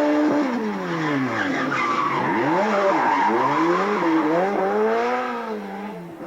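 Rally car engine revving hard, its pitch falling as the throttle comes off and climbing again several times in a row, fading away near the end.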